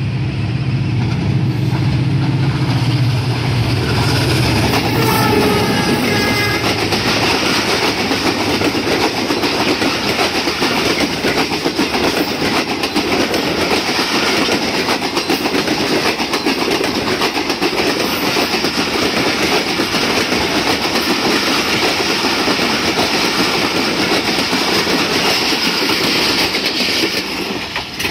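Pakistan Railways diesel locomotive running as it approaches, with its horn sounding for about two seconds about five seconds in. Then the express's coaches pass at speed with a steady wheel clatter and rumble, which falls away near the end.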